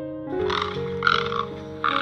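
Frog croaking in repeated short bursts about once a second, starting a few tenths of a second in, over soft piano background music.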